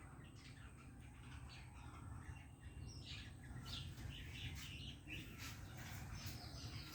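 Birds chirping in many short, high calls that come thicker about halfway through, over a steady low background rumble.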